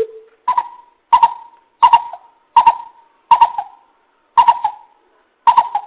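Coucal (bìm bịp) giving a series of about eight deep hooting notes, each with a sharp onset. The first note is lower and the rest step up in pitch, with the gaps between them slowly lengthening. It is a lure call played to draw in wild coucals.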